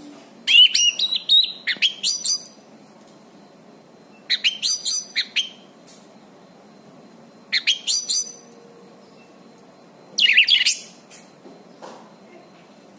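Anis cendana thrush singing: four short phrases of clear, quick whistled notes that sweep sharply downward, spaced a few seconds apart.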